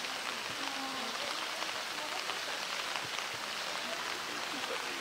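Steady rain falling, an even hiss, with faint voices in the background.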